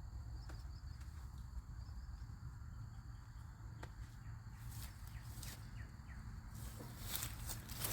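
Outdoor ambience: insects keep up a steady high-pitched chirring over a low constant rumble. A couple of faint clicks fall in the middle, and near the end rustling footsteps come in.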